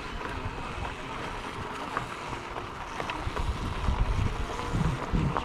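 Wind buffeting the microphone as a rumbling hiss, from riding a pedal-assist electric bike up a dirt-trail hill.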